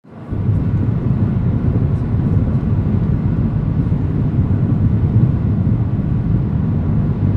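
Strong hurricane wind rumbling steadily and buffeting the microphone.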